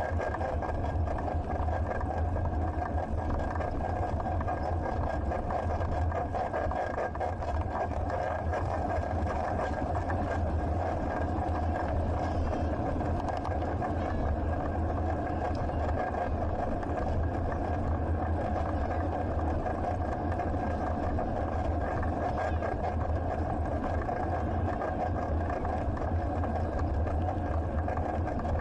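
Steady riding noise picked up by a bicycle-mounted action camera: a deep, constant rumble with a faint steady whine above it, without a break.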